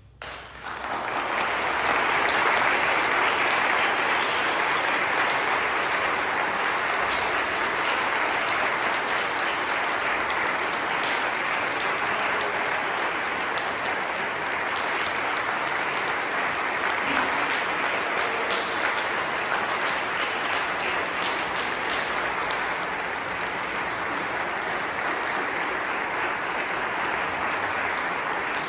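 Audience applauding, swelling up within the first two seconds and then held steady and dense.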